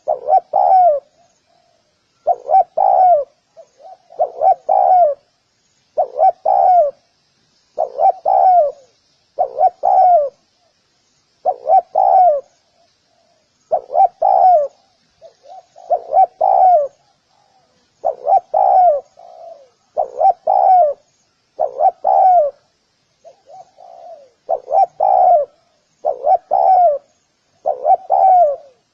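Spotted dove cooing, one short phrase of two or three notes repeated about every two seconds.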